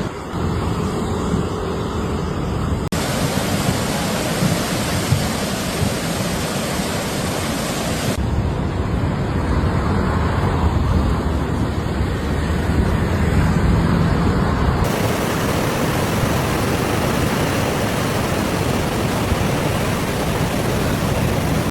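Loud, steady rushing noise of torrential rain and floodwater, changing abruptly about 3, 8 and 15 seconds in as one stretch of footage cuts to the next.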